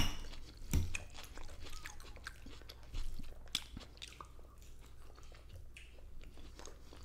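Close-miked chewing and crunching of a lunch bowl of chicken, rice and raw vegetables such as cucumber and salad, with a few louder sharp crunches or clicks near the start and just under a second in.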